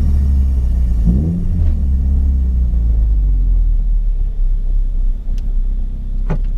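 Toyota MR-S 1.8-litre four-cylinder running through an aftermarket TOM'S Barrel muffler, a deep steady drone while driving, with the pitch shifting about a second in. A sharp crack near the end.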